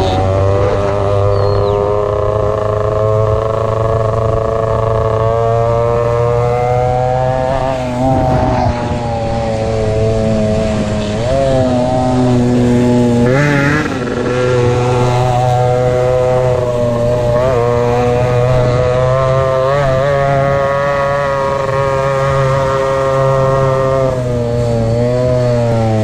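Two-stroke motorcycle engine running hard at high revs, its pitch holding fairly steady with a few brief dips and recoveries as the throttle is eased and reopened, then falling away near the end.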